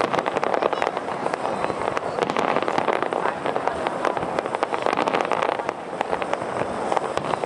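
Fireworks display: a dense, continuous barrage of bursting shells and crackling, with many sharp cracks throughout.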